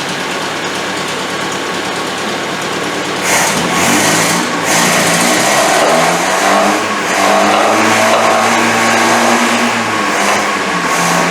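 Freshly rebuilt Land Rover Series 1 four-cylinder engine running on its first run after the rebuild. It idles, then is revved up about three seconds in; the revs rise and fall, are held up for a few seconds, and drop back near the end.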